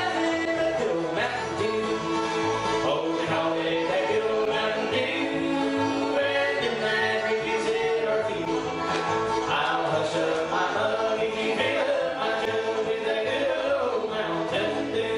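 Bluegrass band playing live, with singing over the string instruments.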